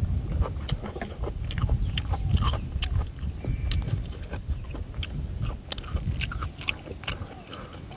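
A person chewing a mouthful of food close to the microphone, with many quick wet smacking clicks, over a steady low rumble of wind on the microphone.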